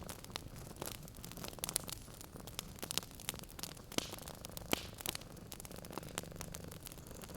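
Wood fire crackling in a fireplace, with many irregular sharp pops and snaps, over a cat's low, soft purring.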